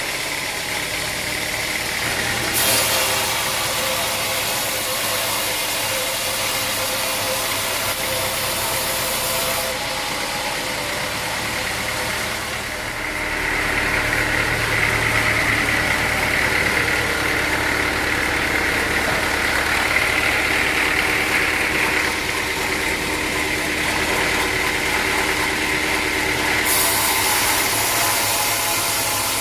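Sawmill engine running steadily, with a high whine joining about halfway through and dying away near the end.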